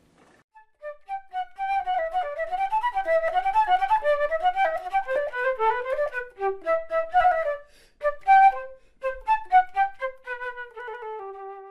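Solo flute playing a quick, flowing melody of rapid runs, breaking into shorter separate notes later on and stepping down to a lower held note at the close.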